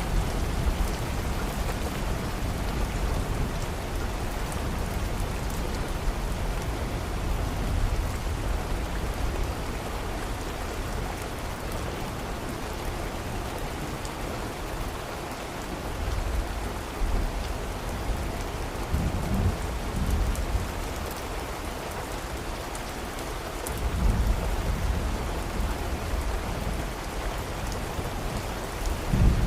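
Steady rain falling, with low rolls of thunder rumbling in about halfway through and again near the end.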